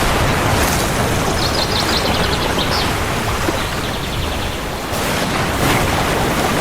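Steady heavy rain, with a bird's rapid high trill about a second and a half in and a fainter trill around four seconds.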